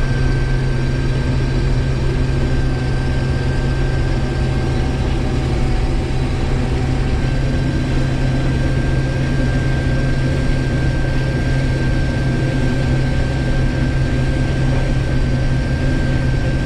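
Case IH 1660 combine running steadily: a constant low engine drone with a thin, steady high whine over it.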